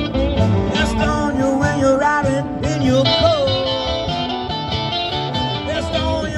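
Live rock band playing, with a guitar lead line of bending, gliding notes over bass and drums.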